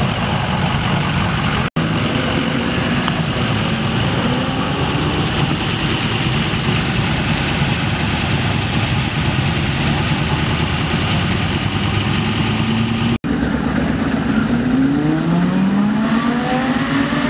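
Performance car engines running and revving as cars pull away. Near the end, one engine's pitch rises, drops and rises again as it accelerates through a gear change.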